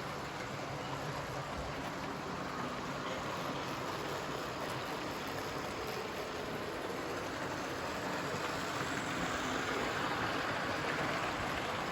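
Hornby 00 gauge model trains running around the layout: a steady whirr of wheels on track, growing a little louder over the last few seconds.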